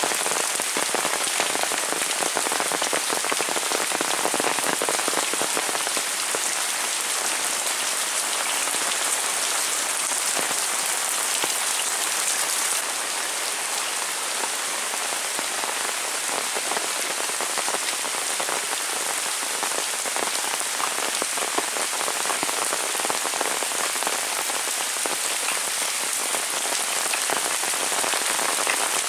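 Heavy rain falling steadily, a dense hiss of countless drops. It eases slightly a little under halfway through.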